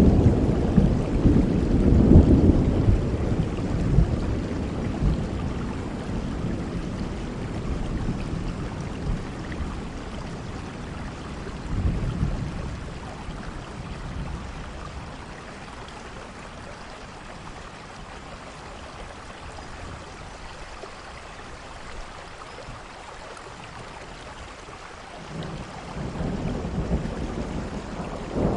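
Steady rain with rolling thunder: a loud, low rumble that slowly dies away over the first half, a smaller roll about halfway through, then only rain until a new rumble builds near the end.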